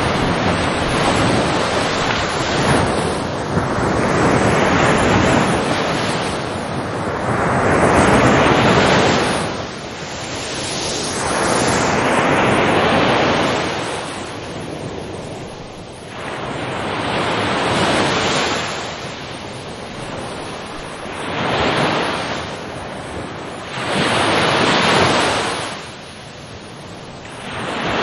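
Ocean waves breaking and washing ashore, a loud rushing surf that swells and falls away every three to four seconds.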